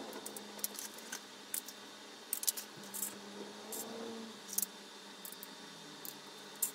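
Hand tools snipping and clicking on electrical wire as extension cables are cut and made up: a string of sharp, irregular clicks.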